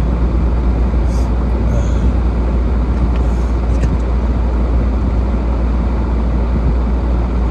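Steady low rumble of road and engine noise inside a moving car's cabin while driving, even throughout with a few faint ticks.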